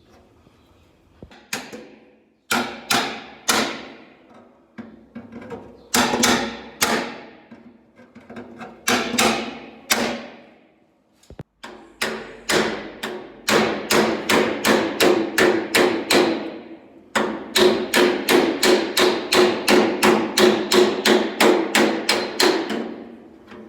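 Body hammer striking car-door sheet steel against a hand-held dolly, each blow ringing metallically. It starts in short groups of blows and then settles into a long even run of about three strikes a second.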